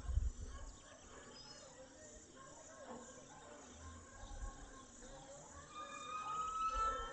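Countryside ambience of birds and insects calling, with low wind rumble on the microphone at the start. Near the end comes a bird's clear whistle rising slowly in pitch, with a faster chirping trill above it.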